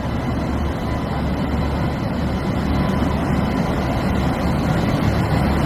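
Indian Railways locomotive running steadily with a low, continuous drone.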